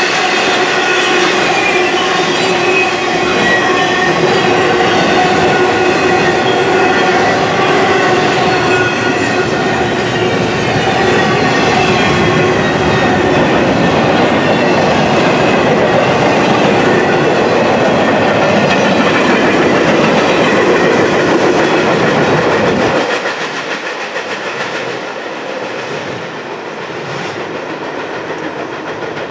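Intermodal well cars loaded with double-stacked containers rolling past on the rails, a dense steady rush of wheel noise with high steady whining tones over it for roughly the first half. About 23 s in the last car goes by and the sound drops off sharply to a much quieter background.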